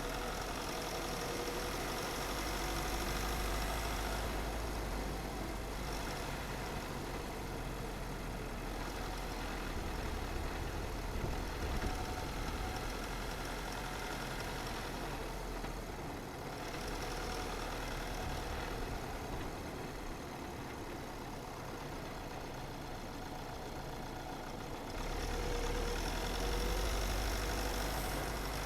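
Car driving along a road: steady engine and tyre noise with a low rumble, which grows louder about 25 seconds in.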